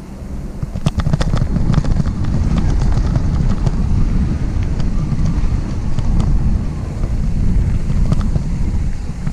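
Wind buffeting the microphone of a camera riding along on a mountain bike, a heavy rumble that grows louder about a second in, with scattered sharp clicks and rattles from the bike over the trail.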